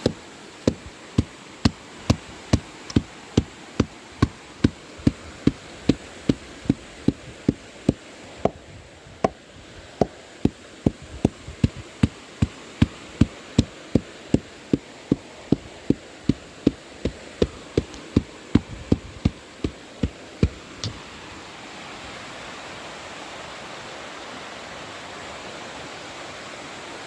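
Steady rhythmic knocking, about two hard strikes a second for some twenty seconds before it stops, over a constant rushing noise.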